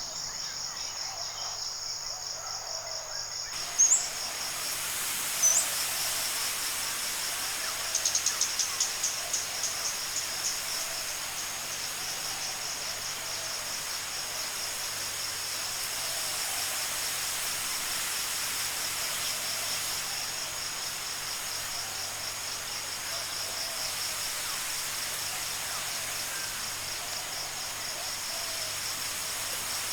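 Forest ambience dominated by a steady, high insect trill. Two short rising bird chirps come about four and five and a half seconds in, and a quick run of ticking notes follows around eight seconds.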